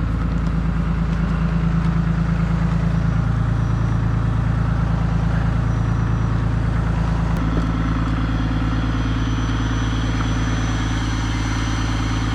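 Truck engine idling steadily as it warms up in the cold. Its tone shifts slightly about seven seconds in.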